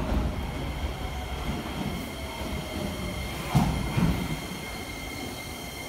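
Shin-Keisei N800 electric train slowing into a station: a faint falling whine from its Toyo Denki IGBT VVVF inverter as it brakes, then a steady high squeal as it draws to a stop. Wheels knock twice over a rail joint about three and a half seconds in, over the low rumble of the running gear.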